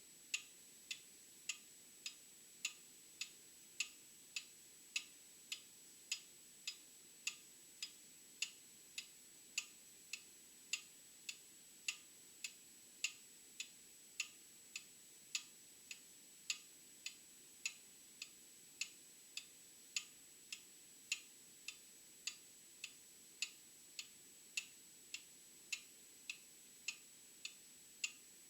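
Old mechanical clock ticking steadily, a little under two ticks a second, the strokes alternating in strength like a tick and a tock.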